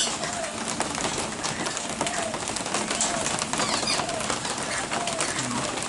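A dove cooing over and over, short low calls about once a second, over a steady hiss of rain, with a few faint high bird chirps.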